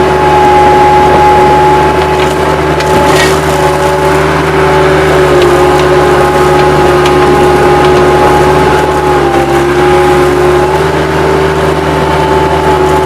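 Bobcat 763 skid-steer loader's diesel engine running hard, with a steady high hydraulic whine that dips slightly in pitch now and then as it works the dirt bucket, and a few light clanks.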